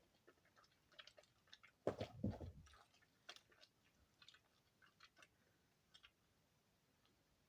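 Moist soap shavings handled and pressed by hand, giving soft scattered crackles and a louder crunchy squish about two seconds in.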